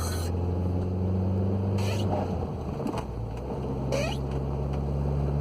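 Audi B6 A4 running on the road in gear, its six-speed manual transmission making a whirring off throttle that the owner believes means the transmission has to come out. The engine note changes about halfway through, and a few short squeaks come from wet shoes on the pedals.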